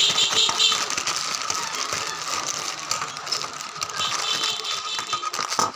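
Rapid ratchet-like clicking and rustling as a PCI expansion card is unpacked from its packaging by hand.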